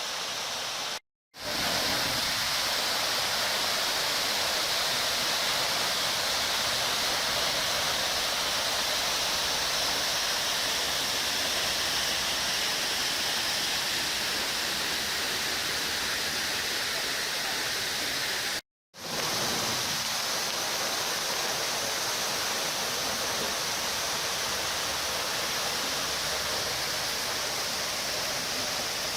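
Roar of Dry Falls, a 75-foot waterfall, a steady rushing of falling water that cuts out briefly twice, about a second in and again about two-thirds of the way through.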